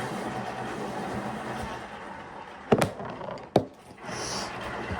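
A steady rushing noise, then two sharp knocks about a second apart, like small objects being set down or tapped on a table.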